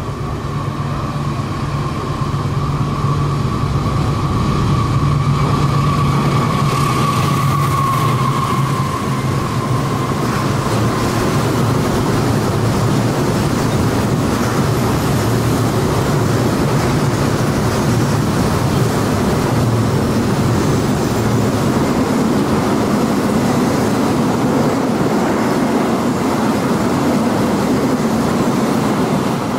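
A diesel locomotive hauling a container freight train passes close by: a low engine drone and a high whine that slides down in pitch and fades about eight to ten seconds in. After that comes a steady rolling rumble from the loaded container flat wagons' wheels on the rails.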